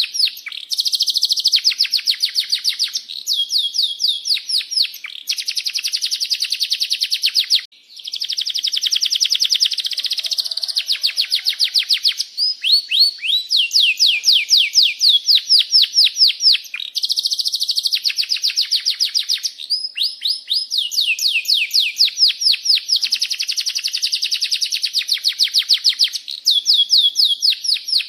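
Domestic canary in full song: long phrases of fast rolling trills and chirps, one after another with hardly a pause, broken once briefly about eight seconds in.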